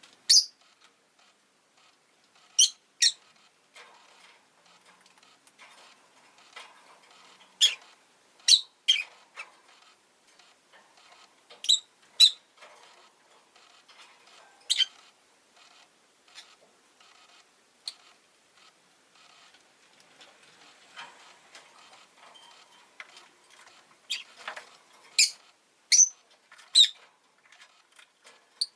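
Rosy-faced lovebird giving short, sharp, high chirps, singly or in quick pairs every few seconds, with a run of them near the end.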